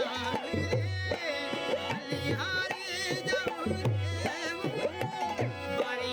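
Rajasthani folk devotional song performed live: a hand drum plays bending low strokes in a steady rhythm under a held drone note, with an ornamented, wavering melody line above.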